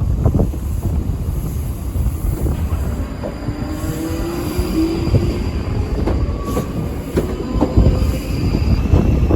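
Train moving through the station: a steady low rumble of wheels on the rails, with thin high squealing tones from about three and a half seconds in until near the end.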